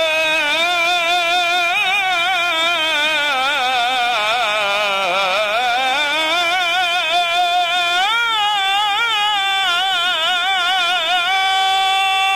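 A male religious chanter sings a long, drawn-out Arabic ibtihal melisma as a solo voice, with a fast wavering vibrato. The pitch sinks slowly toward the middle, climbs again about two-thirds of the way in, and settles into a long held note near the end.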